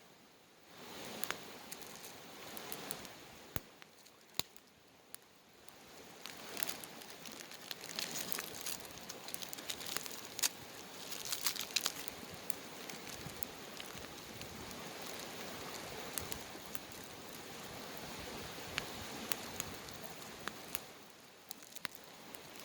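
Wood campfire burning: crackling with many sharp pops over a steady hiss, the pops coming thickest around the middle.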